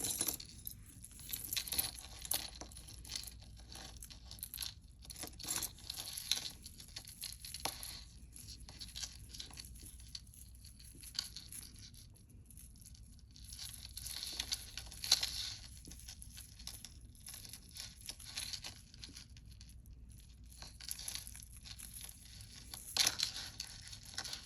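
Hands handling costume jewelry and its packaging: scattered crinkling rustles and light clicks in short irregular bursts, a little louder about two-thirds of the way through and again near the end.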